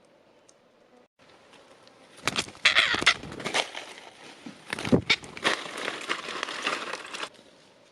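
Wood being torn apart: dense crackling and splintering with a few heavier snaps, starting about two seconds in and cutting off suddenly near the end.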